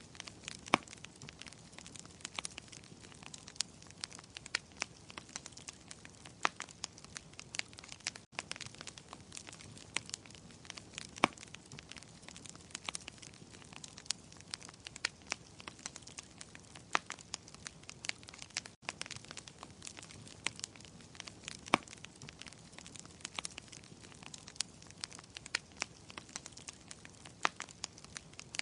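Wood fire crackling in a fireplace: irregular sharp pops and snaps over a soft steady hiss. The sound cuts out for an instant twice.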